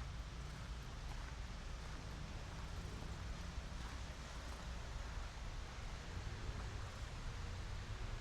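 Outdoor city ambience with wind: a steady low rumble under a soft, even hiss.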